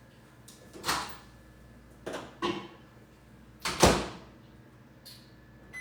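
Microwave door opening and shutting, with several separate knocks and clunks, the loudest about four seconds in, as a jar of honey goes in to be warmed. A short beep follows at the very end.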